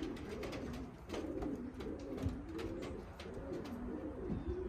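Several racing pigeons cooing in the loft, their low rolling coos overlapping without a break, with a few faint clicks.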